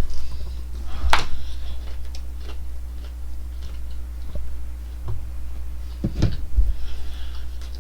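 Chewing and mouth noises of someone eating McDonald's chicken nuggets: scattered soft clicks, with two louder short noisy sounds about a second in and about six seconds in, over a steady low hum.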